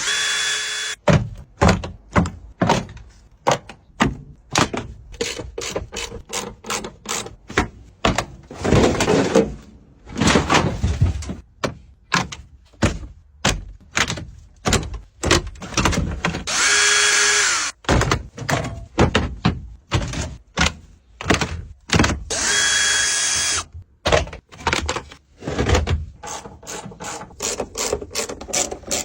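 Irregular knocks, clanks and thunks of tools and parts being handled, with an electric power tool whirring in three short bursts: at the start, about halfway through, and again a few seconds later.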